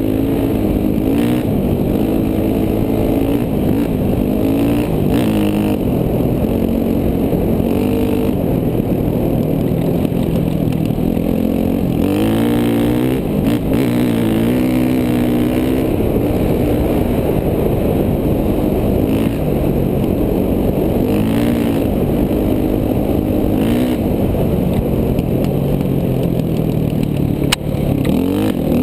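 KTM 450 dual-sport's single-cylinder four-stroke engine being ridden, revving up and dropping back again and again as the throttle is opened and closed through the gears. A single sharp knock comes near the end.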